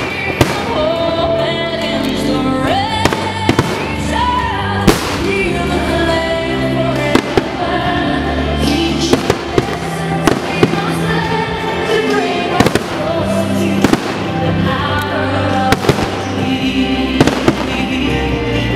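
Fireworks shells bursting in irregular sharp bangs, roughly one a second, over music playing with the display.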